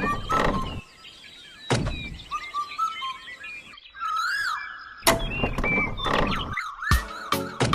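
Birds chirping, cut through by several sharp knocks and clunks.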